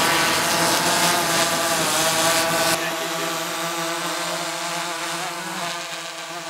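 DJI Phantom 3 quadcopter hovering low, its propellers giving a steady multi-toned whine over a rush of blown air as the downwash fans a fire. About three seconds in, the rushing noise drops off suddenly, and the whine then slowly fades.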